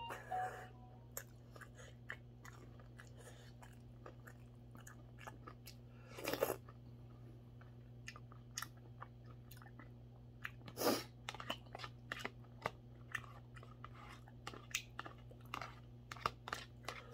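Close-up chewing and mouth sounds of a man eating mackerel rice porridge with a spoon: many small scattered clicks and smacks, with two louder sounds about six and eleven seconds in. A steady low hum runs underneath.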